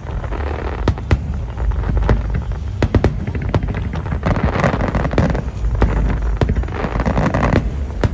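Fireworks display: a rapid series of sharp bangs over a steady rumble, with crackling bursts about halfway through and again near the end.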